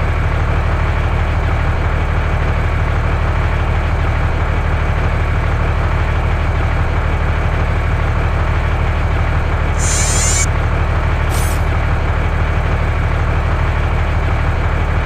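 A loud, steady low rumble like a heavy engine running, with a constant low hum under it. Two short high hisses come about ten and eleven and a half seconds in.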